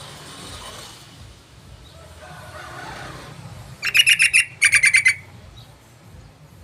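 Yellow-vented bulbul calling: two quick bursts of rapid, bubbling chattering notes, a little under a second apart, about four seconds in. A faint low hum runs underneath.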